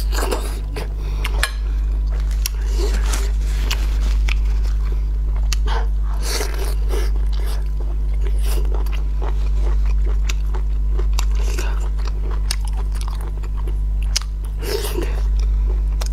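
Close-miked chewing of cooked sea snail (conch) meat, with many small wet mouth clicks, over a steady low hum.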